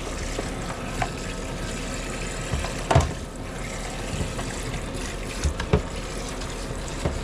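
Steady rush of running water, with a few short knocks at about one, three and five and a half seconds in.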